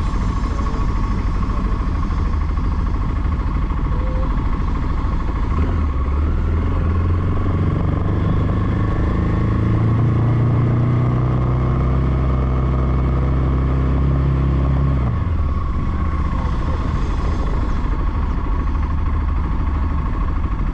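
Voge 300 Rally motorcycle engine running under way, over a constant rumble. The revs climb from about a quarter of the way in, hold steady for several seconds, then drop suddenly about three-quarters through as the throttle comes off.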